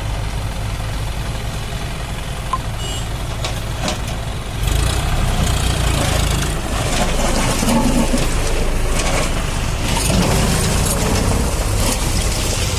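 John Deere 5045 D tractor's three-cylinder diesel engine running while hauling a loaded trolley, getting louder about four and a half seconds in.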